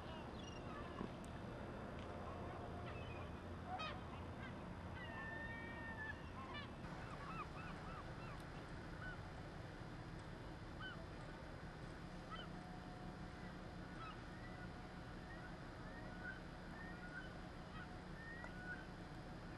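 A flock of birds calling: many short, arched cries overlapping, busiest in the first half, over a steady low machinery hum.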